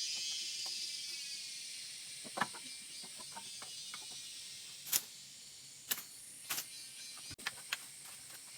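Scattered sharp clicks and knocks, about six of them, over a steady high hiss.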